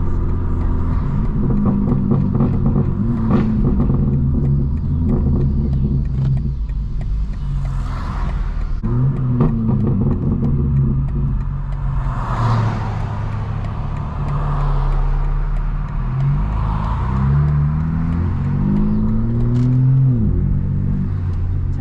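Straight-piped BMW M4 Competition's twin-turbo inline-six running under way, its exhaust note rising and falling with the throttle. Near the end it accelerates hard through several quick upshifts, the pitch climbing in steps and dropping back at each shift.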